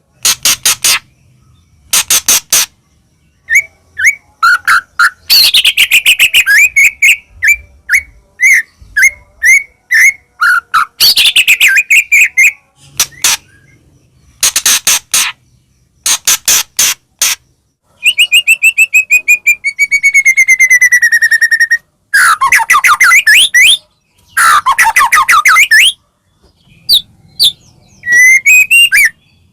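White-rumped shama (murai batu) singing loudly in varied phrases with short silent gaps between them. The phrases mix fast rattling note trains, quick whistled slurs and long falling whistles.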